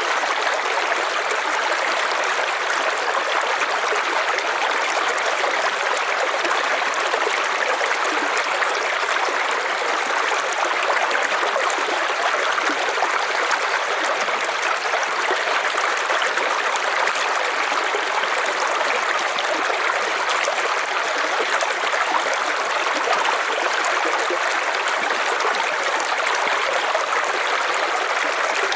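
River water flowing over rocks, a steady even rush of running water with no break or change.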